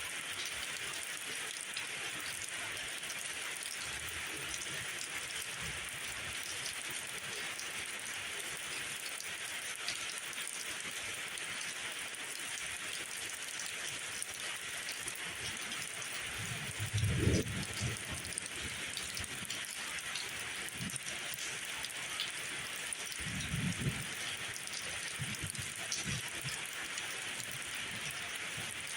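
Steady rain falling on surfaces, an even hiss of drops throughout. There are two short low rumbles, the louder a little past halfway and a softer one later.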